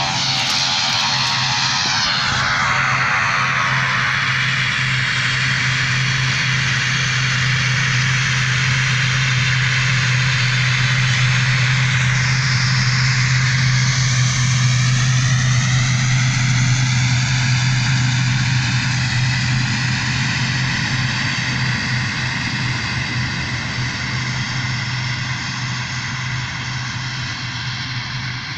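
Turboprop aircraft propellers and engine running with a strong, steady low drone. The sound grows louder toward the middle and then fades, with a slowly shifting swish in the higher noise as the aircraft moves past.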